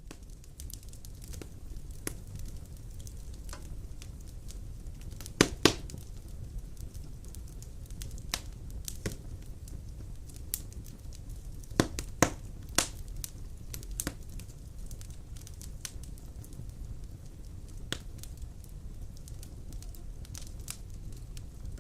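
Wood fire of large logs crackling in a stone fireplace: a low steady rumble of flame with scattered sharp pops, a few louder snaps about five and a half and twelve seconds in.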